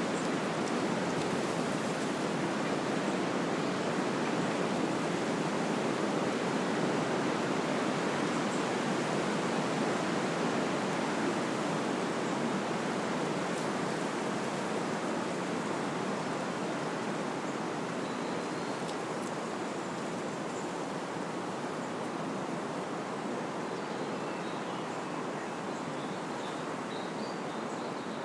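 Wind blowing through trees, a steady rushing rustle of leaves and branches that eases slightly over the second half.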